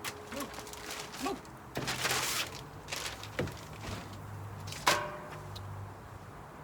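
Cooking handling noises: light clicks, a rasping scrape about two seconds in, and a sharp clank near the end that rings briefly, as of food and utensils being moved on the cooking surface.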